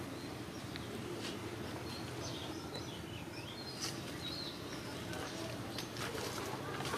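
Faint, short bird chirps, clustered between about two and four seconds in, over a steady low outdoor background hum.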